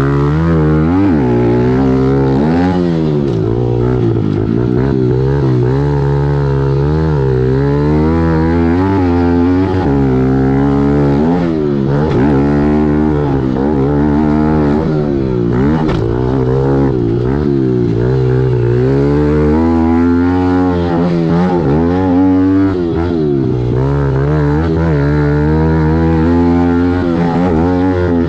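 Kawasaki KLX110L pit bike's small air-cooled single-cylinder four-stroke engine, heard from onboard, revving up and dropping back again and again as the throttle is opened and closed around the motocross track.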